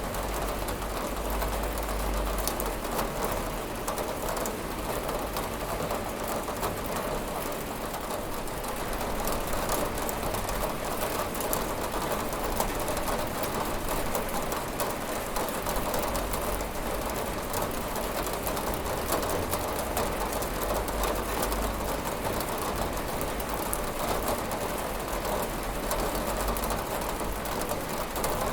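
Steady rain with drops tapping on a window pane, an even hiss dotted with fine, quick ticks.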